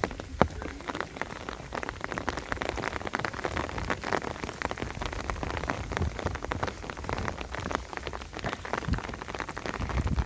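Rain falling steadily, a dense, irregular patter of drops striking surfaces.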